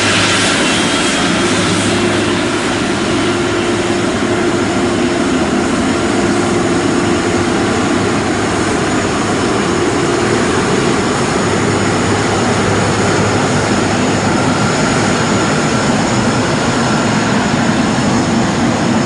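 Jet engines of a KLM Boeing 777-200ER airliner (GE90 turbofans) running, a steady loud noise with high whining tones that shift slightly in pitch.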